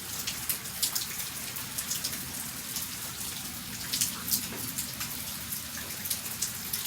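Light rain falling, with many irregular sharp drop impacts tapping over a steady patter.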